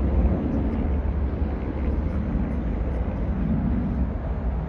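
Boeing 757-200 twin jet engines at takeoff thrust: a steady deep rumble with a hiss above it.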